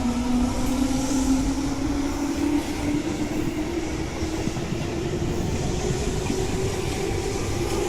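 Tobu 10000 series electric train accelerating away from a station: its motor whine rises slowly and steadily in pitch over a continuous rumble of wheels on rail.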